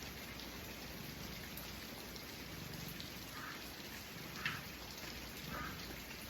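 Steady heavy rain pouring down, mostly covering a cat's purr, which swells faintly about once a second. A single brief soft click about four and a half seconds in.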